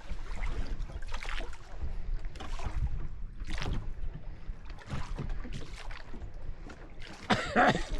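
Small rowing boat under way: hazy, splashy strokes about once a second over a low rumble, with a brief louder sound near the end.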